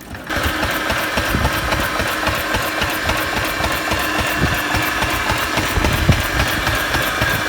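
A vintage tractor engine running steadily at idle with an even, rapid beat; it cuts in suddenly just after the start.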